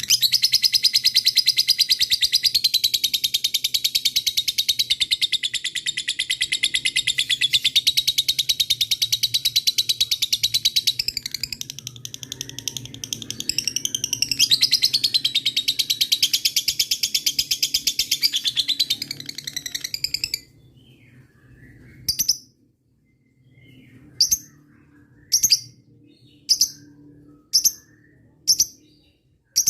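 Lovebird giving a long, very fast chattering trill (the 'ngekek' song) that wavers in pitch for about twenty seconds, then stops abruptly. Single sharp chirps follow, about one a second.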